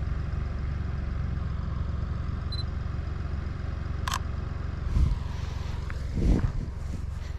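Seat Ibiza FR's 1.0 TSI three-cylinder engine idling steadily through its Friedrich sport exhaust, a low even hum. A short high beep comes a few seconds in, then a sharp click, and two dull thumps near the end.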